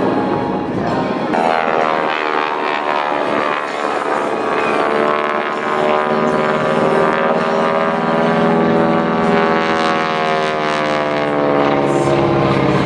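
North American AT-6 Texan warbird in flight, its roughly 600-horsepower Pratt & Whitney R-1340 radial engine and propeller droning loudly. The pitch slides down and then climbs again near the end.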